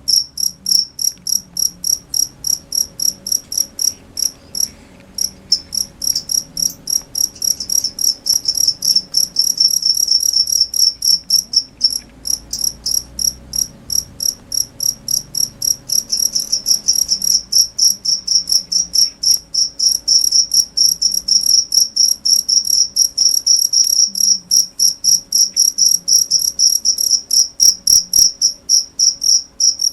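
A cricket chirping: short, high-pitched chirps repeated steadily about three to four times a second, with a couple of brief pauses in the first several seconds.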